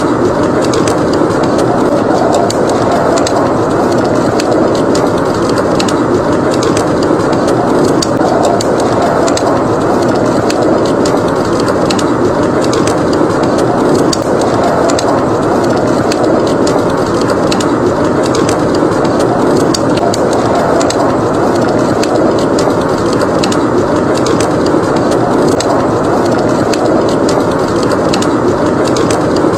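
Howling wind rising and falling in slow swells, with a wood fire crackling in many small sharp pops over it.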